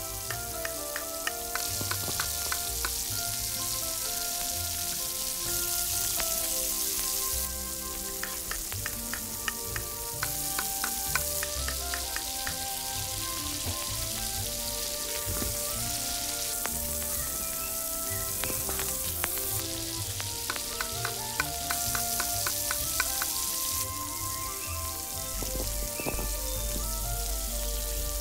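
Food frying in oil on a miniature tawa, a steady sizzle with scattered crackles. The sound changes level abruptly every few seconds.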